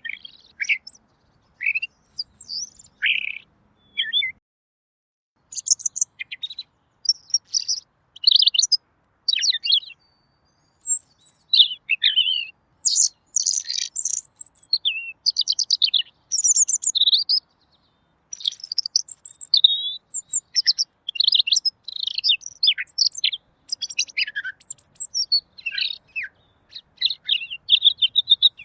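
Pekin robin (red-billed leiothrix) singing a long run of quick, varied, clear whistled and chattering phrases, broken by a short pause about five seconds in and another a little past the middle.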